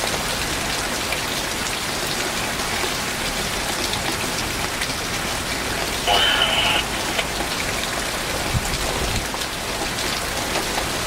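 Rain falling steadily in a severe thunderstorm, an even hiss of rain, with a brief snatch of voice about six seconds in.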